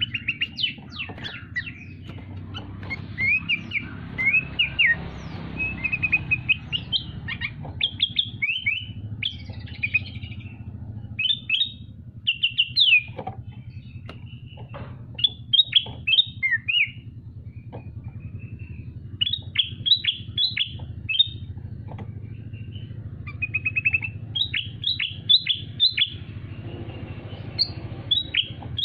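A songbird singing in repeated bursts of rapid, high chirping notes, with short pauses between phrases.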